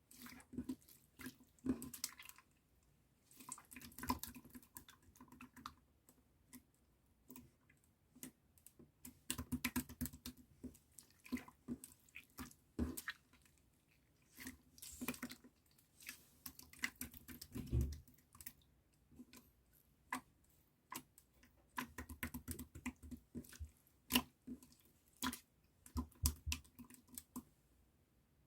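Clear slime being pressed, stretched and folded by hand. It makes irregular wet clicks, small pops and squishes, in uneven runs with short pauses between.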